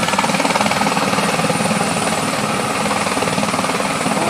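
Helicopter running close by, its rotor beating in rapid, even pulses over a loud, steady engine noise.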